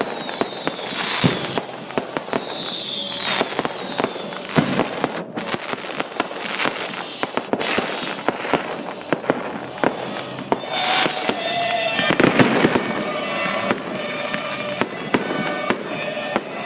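Fireworks display going off: a dense run of bangs and crackling bursts, with a whistle falling in pitch a few seconds in.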